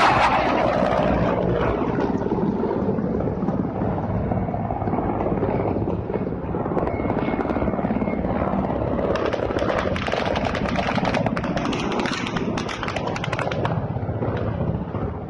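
Low-flying military attack helicopters passing, their rotors beating rapidly and steadily over engine noise.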